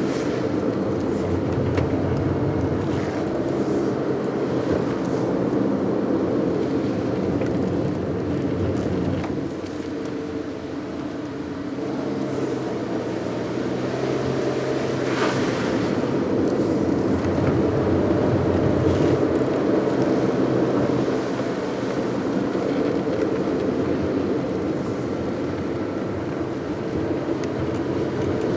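A car driving along a road: steady engine and tyre noise. It eases off about ten seconds in and picks up again a couple of seconds later.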